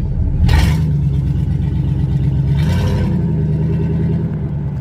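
Vehicle engine running with a deep, steady note whose pitch steps up about half a second in and again near three seconds, each step with a brief burst of hiss.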